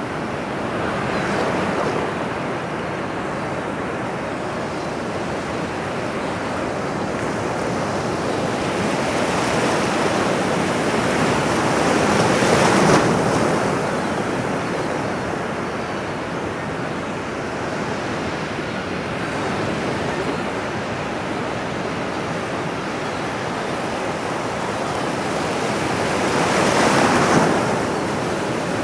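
Ocean waves washing onto a shore. The surf swells and breaks in slow surges, loudest about a third of the way in and again near the end.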